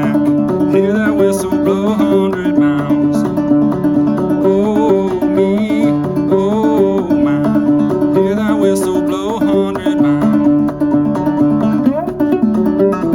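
Fretless gourd banjo played clawhammer style, a steady stream of plucked melody notes over a ringing drone note.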